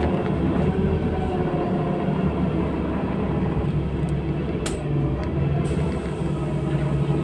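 Steady low drone of a LiAZ-5292.67 city bus under way, heard from inside the cabin. A couple of short sharp clicks come about four to five seconds in.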